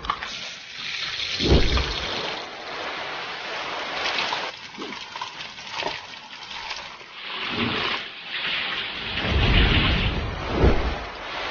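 Food sizzling in hot oil, with deep whooshes of flames flaring up from the wok and griddle, about a second and a half in and again several times near the end.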